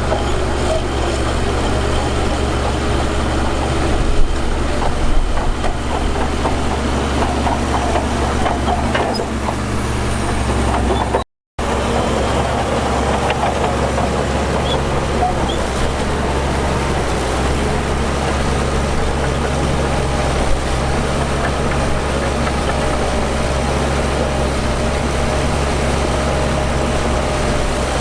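Heavy diesel earthmoving machinery, a bulldozer or dump truck, running steadily with a deep engine drone and a couple of faint knocks. The sound drops out completely for a split second a little over a third of the way through.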